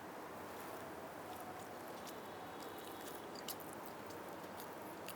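Quiet close-up chewing of roast chicken: small wet mouth clicks over a steady hiss, with one sharper click about three and a half seconds in.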